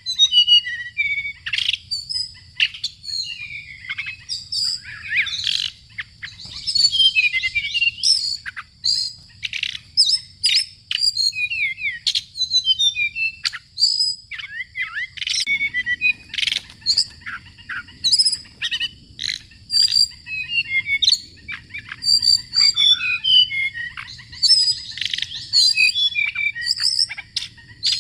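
Songbirds chirping and calling rapidly, many short high notes and trills tumbling over one another, over a steady high tone.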